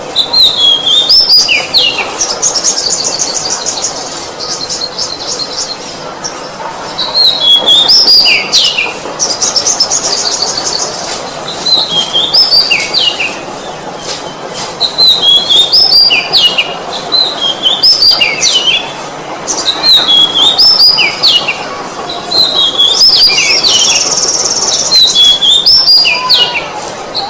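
Oriental magpie-robin (kacer) singing loud, repeated phrases of whistled notes that step and drop in pitch, a new phrase every second or two. Fast, dry trills break in three times.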